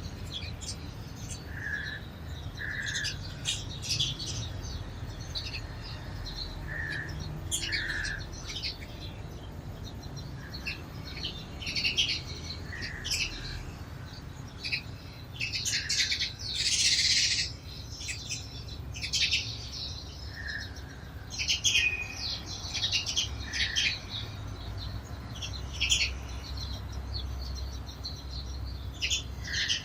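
Sparrows chirping in short, scattered calls, with a louder, denser flurry about seventeen seconds in. A steady low rumble runs underneath.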